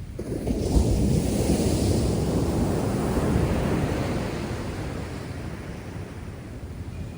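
Heavy storm surf: a large wave breaks and crashes just after the start, its loud wash slowly ebbing, with rough sea churned up by a typhoon.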